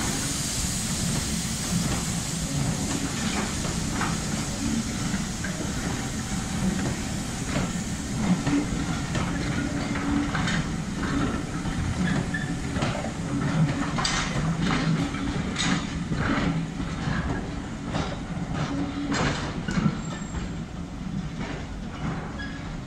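Steam-hauled passenger coaches rolling slowly past into a tunnel: a steady rumble with wheels clicking and clanking over the rail joints, fading near the end as the last coach goes in.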